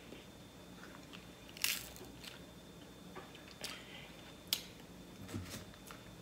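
Close-miked chewing of crab leg meat, with a few sharp, crisp clicks about one and a half, three and a half and four and a half seconds in.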